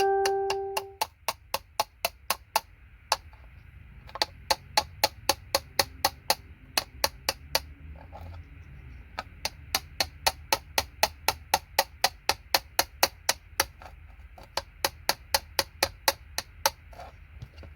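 Sharp clicks in quick, regular runs of about three a second with short pauses: a hand tool nipping pins and small components off a circuit board one after another. A metallic ring fades out in the first second.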